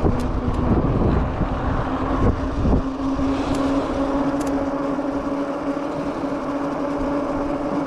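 Cyrusher XF900 fat-tyre e-bike riding on asphalt: wind rush and road noise, with a steady hum holding one pitch from about a second and a half in.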